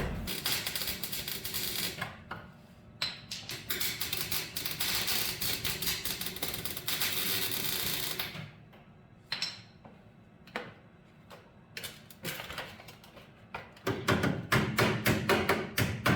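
Welding crackle as new steel is welded into a car's rusted front chassis rail, in runs: a short burst, a longer steady run, then separate short bursts and a quick series of short pulses near the end.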